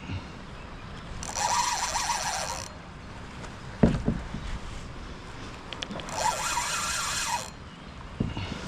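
Fishing reel whirring in two bursts of about a second and a half each, with a few low thumps between them, the loudest about four seconds in.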